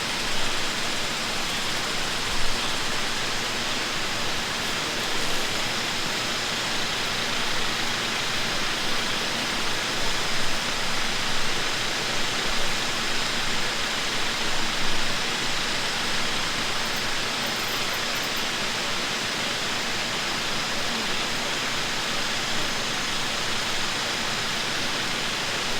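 Steady rushing noise of running water, with a faint low hum under it and a few soft thumps.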